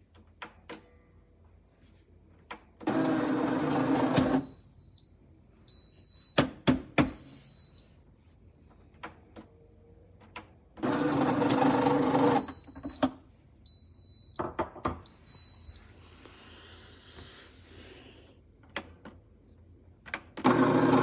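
Café Bellissimo espresso machine's built-in bean grinder running in three short bursts of about a second and a half, the last starting near the end, with short high beeps and clicks between them. It is being run again and again while barely dispensing grounds, a grinder that stays clogged even after cleaning.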